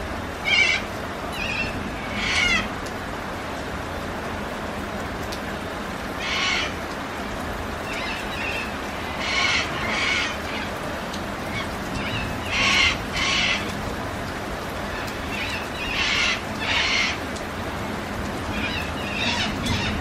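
Bird calls, mostly in pairs repeated every few seconds, over a steady hiss of rain.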